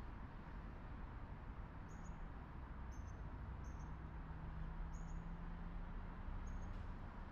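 A small bird giving about five short, high chirps at irregular intervals, over a steady low outdoor rumble with a faint hum under it.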